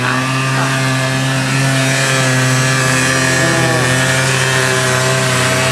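Quad bike engine running loud at fairly steady revs, its pitch dipping briefly about four seconds in.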